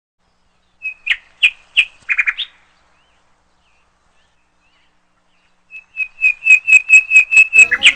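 A parrot giving short, sharp, repeated calls: four or five spaced calls about a second in, then after a pause a quick run of about a dozen calls that grows louder toward the end.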